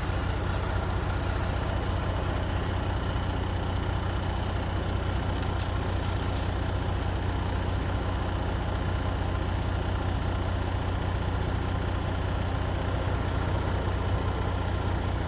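Semi-truck diesel engine idling steadily with an even low hum.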